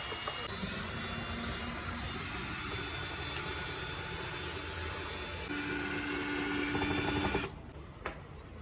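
Steady mechanical whirring, like a small motor running. It gets louder with a steady hum about five and a half seconds in, then cuts off abruptly near the end.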